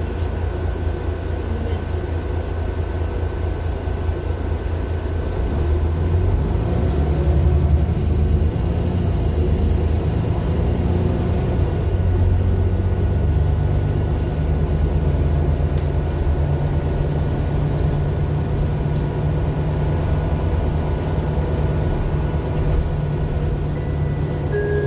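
Mercedes-Benz Citaro LE city bus's OM 457 hLA inline-six diesel, heard on board while the bus is driving. The engine gets louder about six seconds in, its note changes in steps a couple of times after that, and a faint steady high whine runs underneath.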